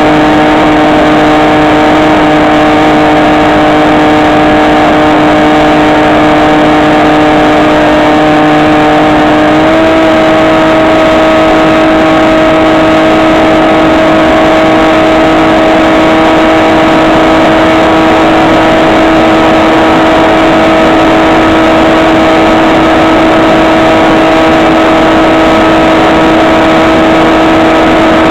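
Electric motor and propeller of a HobbyKing SkyEye FPV model plane running steadily in flight, a loud droning whine over a rush of noise. The pitch steps up slightly about ten seconds in as the throttle is raised a little, then holds.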